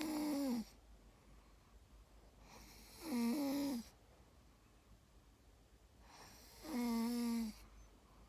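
A sleeping dog snoring: three snores about three and a half seconds apart, each lasting under a second and carrying a clear pitched note.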